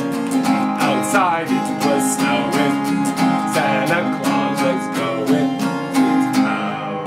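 Guitar strummed in a steady rhythm, playing out the end of a song, and stopping near the end.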